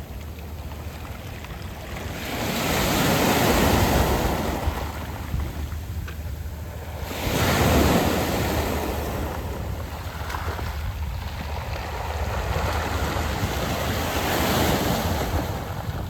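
Sea waves washing in and out over a beach of small round pebbles, swelling three times, with a steady low rumble of wind on the microphone underneath.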